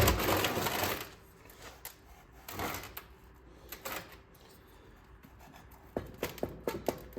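Metal tools and engine parts clattering and clicking as they are handled on a workbench: a noisy rattle in the first second, another short one a couple of seconds later, then a quick run of sharp clicks near the end.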